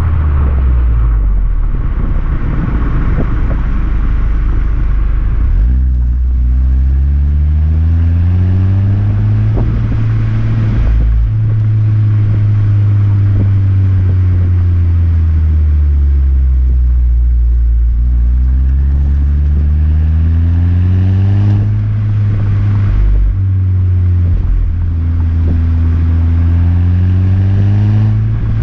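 Motor vehicle exhaust while driving, the engine note climbing and falling several times as it speeds up and eases off. The first few seconds are rougher and noisier, and the pitch drops sharply about 21 seconds in before climbing again.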